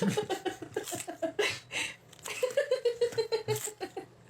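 A person laughing in two runs of quick, repeated pitched bursts.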